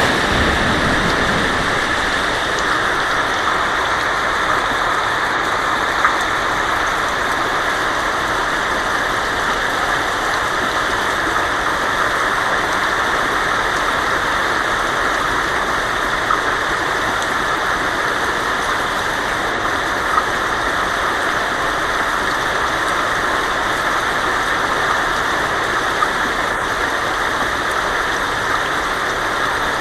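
Heavy rain falling steadily on a tin roof as a dense, even hiss, with a few single louder drops standing out now and then. A short low rumble sounds right at the start.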